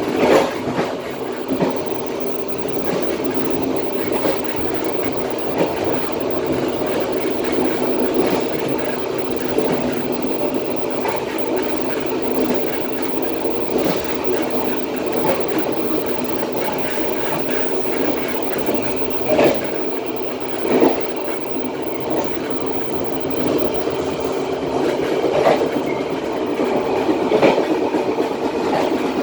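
Matarmaja passenger train running along the track, heard from its rear: a steady rumble of steel wheels on the rails, with scattered sharp clacks as the wheels pass over rail joints.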